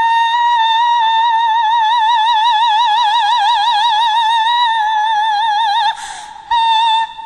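A classical soprano holding one long, very high note for about six seconds, its vibrato widening in the middle. She takes an audible breath, then sings a short note near the end.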